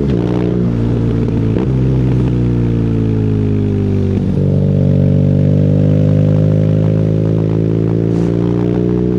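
BMW R nineT's boxer twin through an Akrapovic exhaust, ridden on the road. The revs drop sharply at the start and fall steadily under engine braking, jump up with a downshift about four seconds in, then climb slowly as the bike pulls away again.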